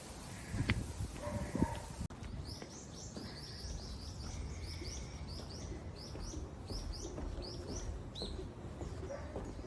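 A bird giving a long run of short, high chirps, about three a second, starting about two seconds in, over a steady low rumble.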